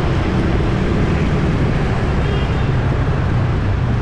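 Busy city street traffic: a steady, dense wash of engines and tyres from vehicles passing continuously.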